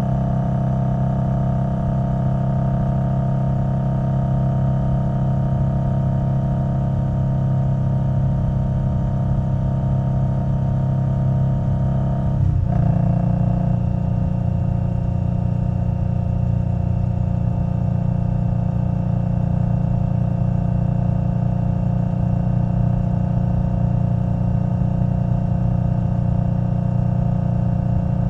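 2021 Indian Scout Bobber Twenty's V-twin engine running steadily under way through a V&H Twin Slash exhaust. A little under halfway through the note breaks briefly, then settles again at a slightly different pitch.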